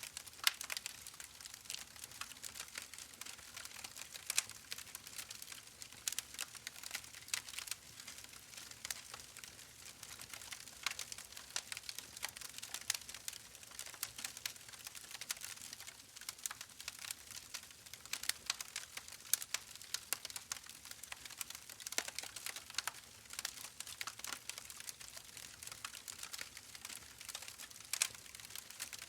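A steady, soft crackle of many small, irregular clicks, sounding like background crackle ambience.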